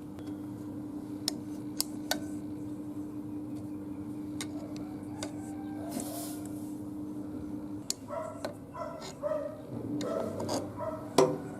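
Rubbing and scraping with scattered sharp clicks over a steady hum; the hum stops about eight seconds in, and short pitched sounds and a loud click follow near the end.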